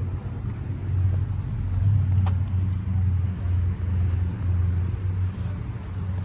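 Car engine running close by, a low rumble that swells about a second in and eases near the end.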